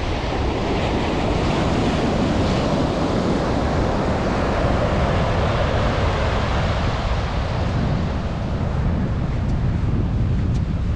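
Atlantic surf washing onto a sandy beach, a steady wash of breaking waves, with wind buffeting the microphone.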